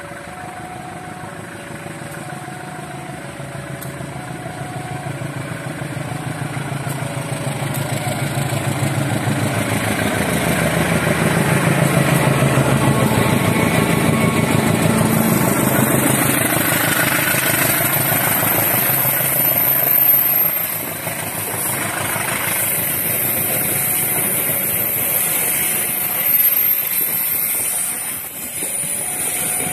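KAI CC201-class (GE U20C) diesel-electric locomotive running past with a passenger train: the engine rumble builds as it approaches and is loudest about halfway through, then the coaches roll by. A level-crossing warning bell sounds faintly in two alternating notes at the start and again near the end.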